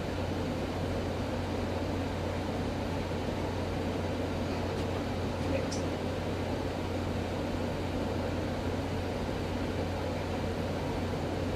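Steady low hum with an even hiss.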